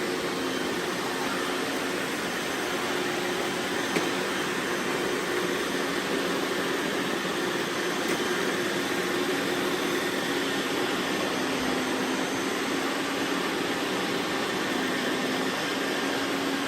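Robot vacuums running together: a steady whirring hum of motors and brushes with a few faint clicks.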